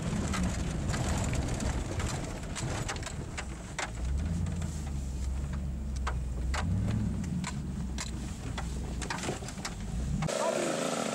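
Car engine rumbling at low speed, heard from inside the cabin, with many irregular raindrop ticks on the windshield and roof. About ten seconds in it cuts to the higher buzz of a motocross bike engine.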